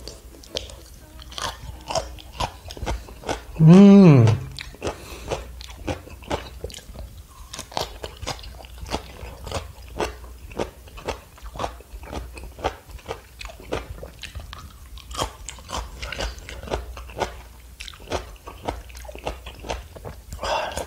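Close-up crunching and chewing of crisp pickled yellow radish (danmuji), a steady run of bites about three a second. About four seconds in comes one brief, loud hum from the eater.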